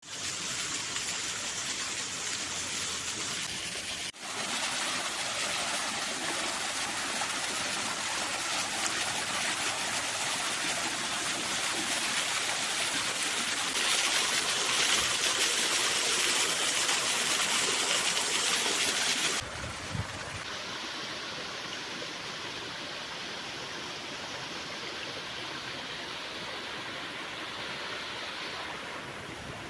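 Stream water rushing and splashing steadily, like a small cascade. It changes abruptly twice, at about 4 seconds and at about 19 seconds, and is loudest just before the second change.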